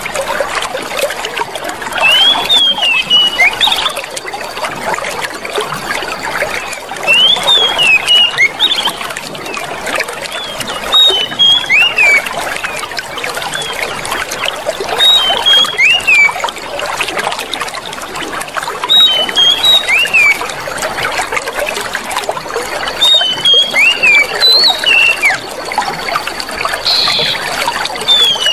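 Clear water trickling and running steadily, like a small stream. Short bird chirps sound over it in little clusters every few seconds.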